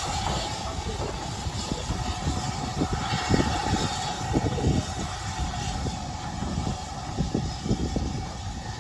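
Train moving on the heritage line, with a steady hum and irregular low knocks, and wind buffeting the microphone.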